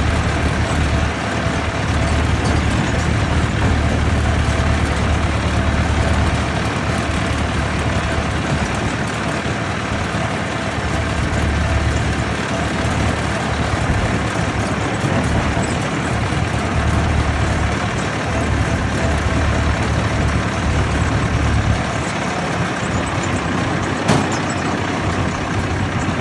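Vintage tractor engines running with a steady low rumble that swells and eases; a single sharp click about 24 seconds in.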